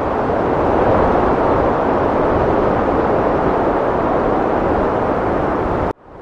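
Heavy wind blowing in a loud, steady rush that swells slightly about a second in. It cuts off abruptly near the end, then fades back in.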